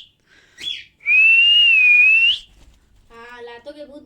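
Cockatiel whistling: a short chirp, then one long, slightly wavering whistle of about a second and a half that ends on a quick upward flick. A faint low voice follows near the end.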